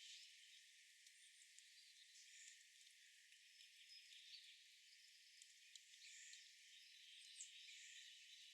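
Faint outdoor nature ambience: a steady, high-pitched insect chorus with a few short bird chirps and small ticks.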